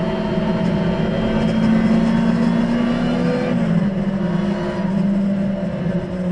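Lotus Exige engine with an aftermarket 2-Bular exhaust, heard from inside the cabin while lapping at high revs; its pitch holds steady, then eases down a little about three and a half seconds in as the throttle comes off, with tyre and wind noise beneath.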